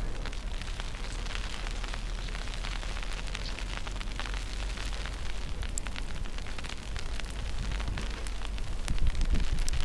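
Wind buffeting the microphone with a low rumble, over an irregular crackle of small ticks during a snowstorm walk. It grows a little louder near the end.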